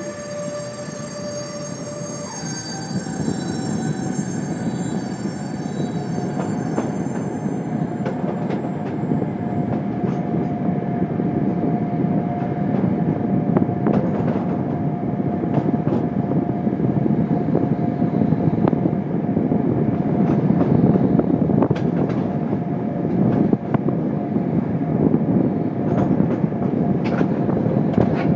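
A train rolling slowly through a rail yard, heard from on board: a steady rumble of wheels on rail that grows gradually louder, with a whine that shifts in pitch about two seconds in. Scattered clicks come as the wheels run over points and rail joints.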